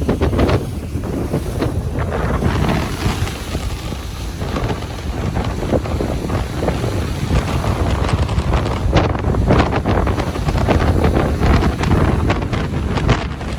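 Ocean surf washing on a beach, a continuous rushing noise, with wind buffeting the microphone and adding a heavy low rumble and irregular gusty bursts.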